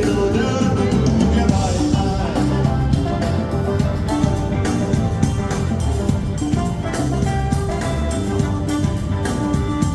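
A live band playing an instrumental passage, with drums keeping a steady beat under sustained instrument notes.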